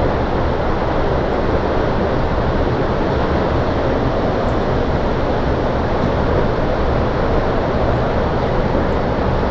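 Loud, steady rushing roar of storm wind, heaviest in the low end, with the wind pounding the microphone.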